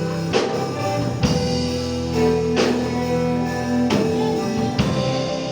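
Gospel band playing an instrumental passage between sung lines: held chords with guitar, and drum strikes landing about every second.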